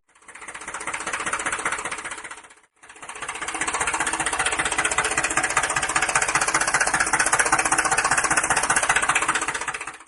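A small motor-driven miniature machine running with a rapid, even clatter. It fades out about two and a half seconds in, then starts again and runs steadily.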